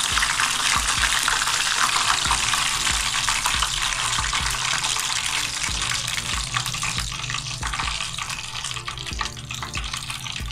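Battered fish sizzling and crackling in hot oil in a small aluminium pan, the sizzle thinning and getting quieter near the end as the last piece is lifted out.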